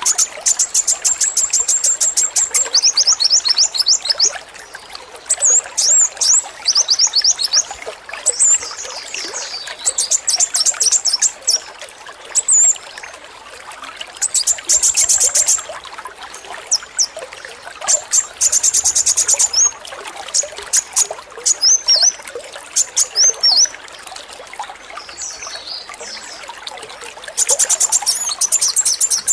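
Male kolibri wulung sunbird singing its rapid 'AK-47' song: fast, machine-gun-like trains of high, thin notes in repeated bursts of a second or two, mixed with shorter hooked chirps. Water trickles steadily behind it.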